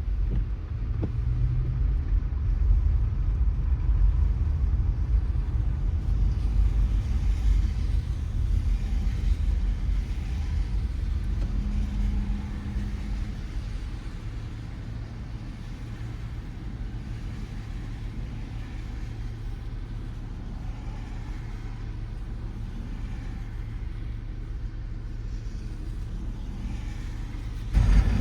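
Car driving on wet city roads: a steady low road rumble with tyre hiss, easing a little about halfway through. Near the end it suddenly gets louder.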